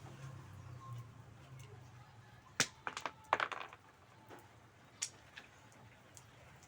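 A handful of sharp clicks and taps over a quiet background: a quick cluster about two and a half to three and a half seconds in, then two more around five seconds.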